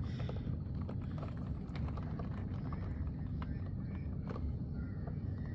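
Heavy rain pouring down in a steady rushing noise, with scattered sharp clicks of drops striking nearby surfaces.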